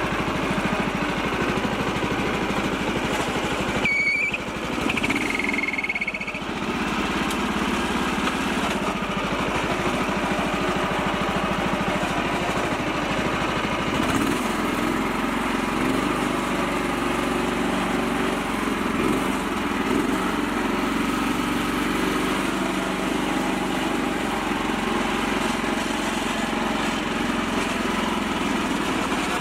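Small tractor engine running steadily throughout, with a brief high squeal twice, about four and six seconds in.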